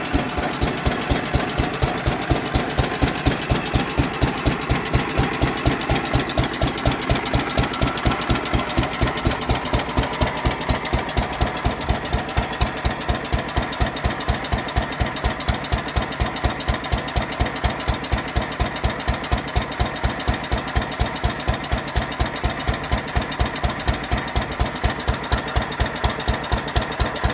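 2.5 hp IHC Mogul single-cylinder gas engine running steadily, with an even beat of about three strokes a second.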